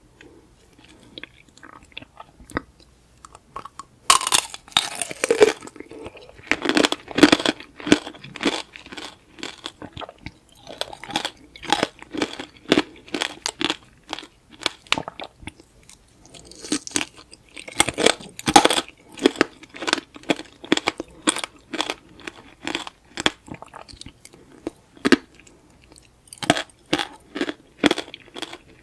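Close-miked biting and chewing of tanghulu, fruit in a hardened sugar-candy shell: the glassy shell cracks and crunches in many sharp strokes. A loud crunching bite comes about four seconds in and another around two-thirds of the way through, with steady chewing between.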